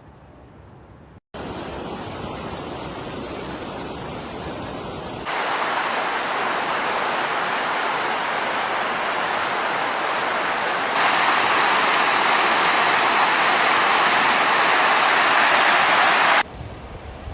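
Floodwater rushing: a steady roar of fast-flowing water across several cut-together shots, stepping louder at each cut about a second, five seconds and eleven seconds in, then dropping near the end.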